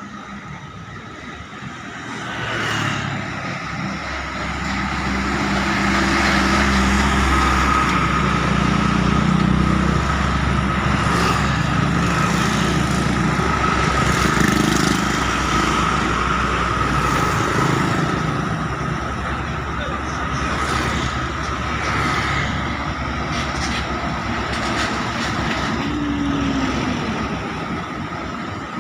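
Heavy truck engines running on the road, growing louder about two seconds in and staying loud through the middle, with a steady whine above the engine rumble.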